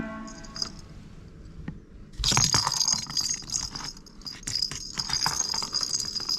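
A small bell jingling and rattling in quick irregular shakes, starting about two seconds in, as a cat plays with a bell toy.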